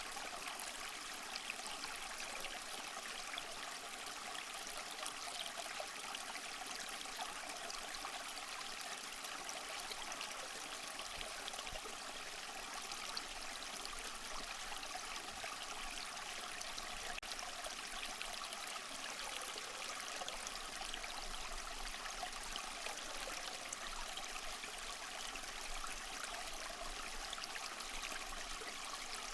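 Small mossy waterfall: water falling and trickling steadily, an even hiss.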